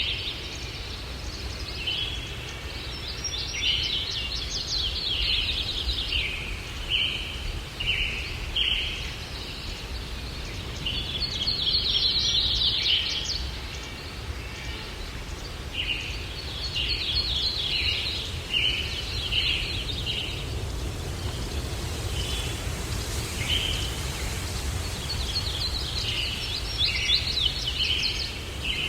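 Songbirds chirping and twittering in quick bouts of rapid notes every few seconds, over a steady low rumble of breeze.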